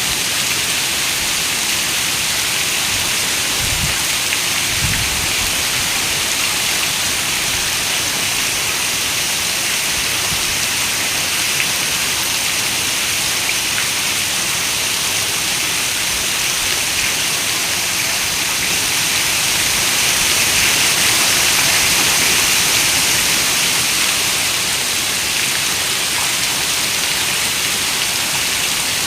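Heavy rain on a window: a steady, dense hiss of falling rain that swells louder for a few seconds about two-thirds of the way through.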